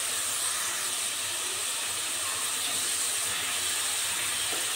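Ginger-garlic and green chilli paste frying with sautéed onions in hot oil in a karahi: a steady sizzling hiss.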